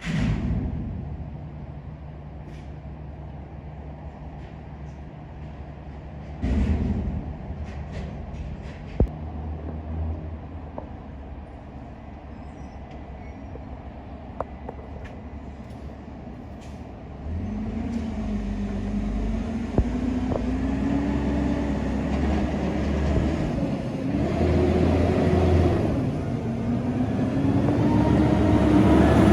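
Diesel engine of a Peterbilt garbage truck with a Heil body, idling steadily, with a short hiss at the start and another about six seconds in. From a little past halfway the engine revs up and a whine rises and falls, climbing again near the end.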